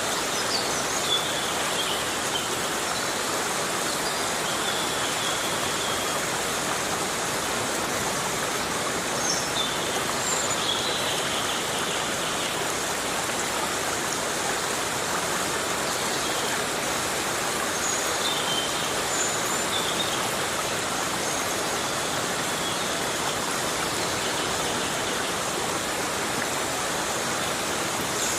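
Heavy rain falling steadily on a tropical forest: a dense, even hiss with no let-up. Faint short high calls sound now and then through it.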